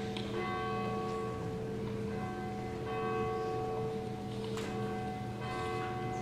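Church bell ringing before a service: repeated strikes whose long, overlapping ringing tones carry on between strokes.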